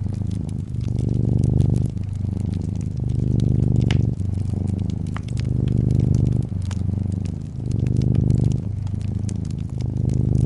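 Domestic cat purring close up, a steady low rumble that swells and eases with each breath about every one and a half to two seconds. Fireplace wood crackles over it with scattered sharp pops.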